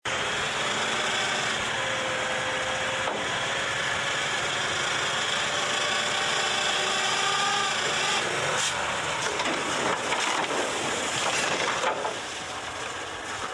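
Heavy machinery running with a loud, steady grinding and scraping noise that eases off somewhat near the end.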